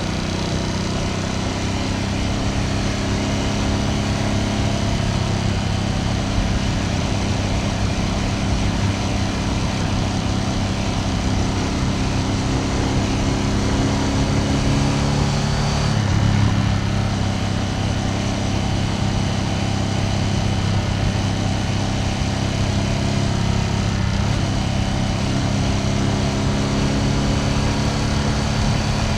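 Ducati Panigale V2S's V-twin engine running steadily under way, with a brief surge in revs about sixteen seconds in.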